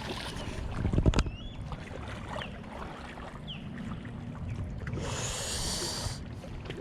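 Kayak on the water: low rumble of water and wind against the boat, with one hard knock about a second in and a short burst of hiss near the end.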